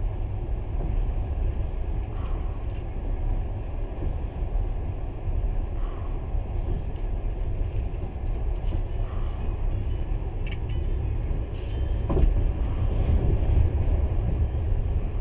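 Passenger train running, heard from inside the carriage: a steady low rumble of wheels on rails, with one sharp knock about twelve seconds in.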